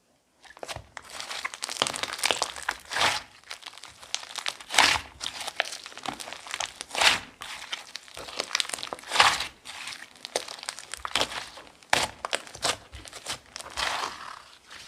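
Clear slime mixed with clay being squeezed and folded by hand, its trapped air popping and crackling, with a sharper, louder pop about every two seconds.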